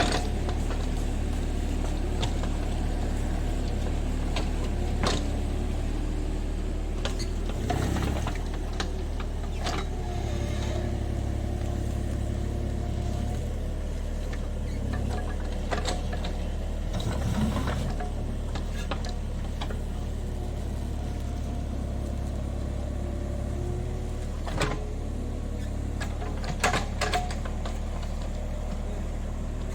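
JCB 30 Plus mini excavator's diesel engine running steadily under work. Its note shifts briefly about a quarter of the way in and again just past halfway, with scattered knocks and clanks throughout.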